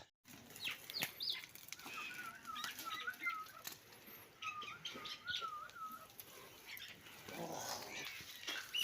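A bird singing in warbling whistled phrases, two similar runs of wavering notes a couple of seconds apart, with a few higher sweeping notes near the start and light clicks behind.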